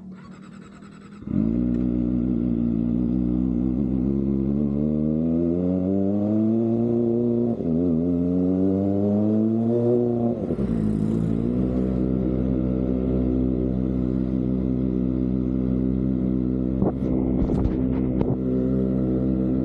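Kawasaki ZX-25R's 250cc inline-four engine through an Austin Racing aftermarket exhaust while riding. About a second in the engine comes in loud; its pitch climbs slowly, drops, climbs again and drops, as when accelerating through two upshifts, then it holds a steady note while cruising. There are a few short sharp noises near the end.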